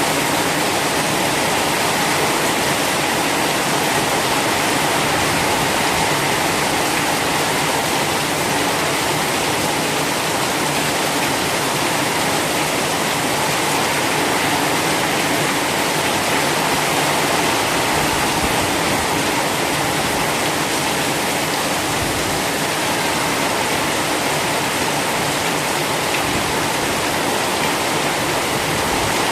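Heavy, steady rain falling hard in a continuous hiss, with no single drops standing out.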